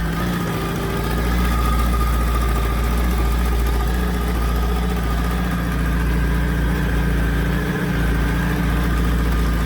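Yamaha YZF R1's inline four-cylinder engine idling steadily.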